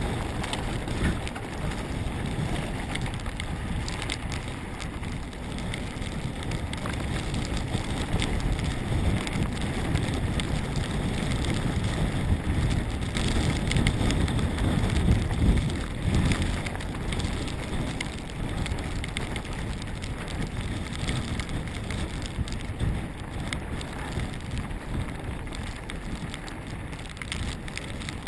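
Mountain bike descending a rough trail at speed: steady wind rush on the microphone over a constant clatter of tyres on dirt and rocks and the bike rattling and knocking.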